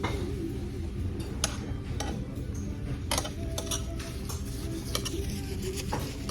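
Cutlery and dishes clinking at the table: irregular sharp clicks and clinks, a few ringing briefly, over a steady low background rumble.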